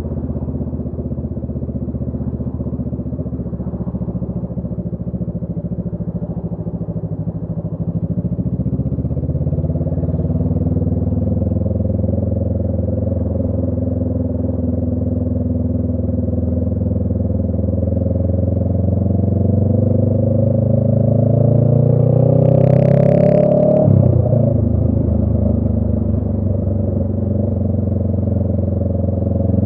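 Honda Rebel 500's parallel-twin engine through a Radiant Cycles Shorty GP aftermarket exhaust, running under way. Its pitch climbs steadily for several seconds, with a short hiss just before it drops sharply about two-thirds of the way through at an upshift, then it climbs again near the end.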